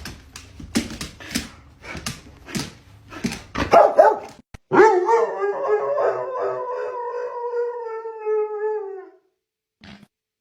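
A dog barking several short times, then letting out one long howl of about four seconds that sinks slightly in pitch before stopping.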